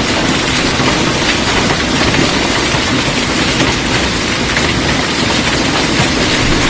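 Hailstorm: a steady, dense clatter and roar of hailstones and heavy rain pelting down on hard surfaces.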